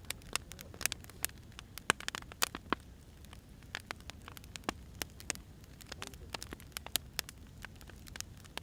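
Firewood burning, crackling with irregular sharp pops and snaps over a low, steady hiss.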